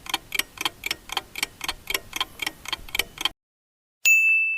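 Clock-ticking countdown sound effect, about four sharp ticks a second, that stops abruptly. A moment later a single bright bell ding rings and slowly fades, marking the end of the answer time.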